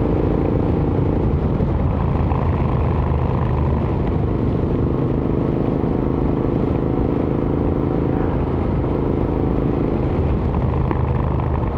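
Royal Enfield Interceptor 650's parallel-twin engine running through an aftermarket AEW exhaust while riding, a steady exhaust note whose pitch shifts slightly a couple of times.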